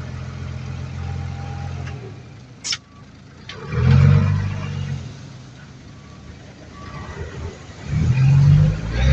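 Heavy diesel engine of earthmoving machinery running, revving up loudly twice, about four seconds in and again near the end. A brief high-pitched squeak comes just before the first rev.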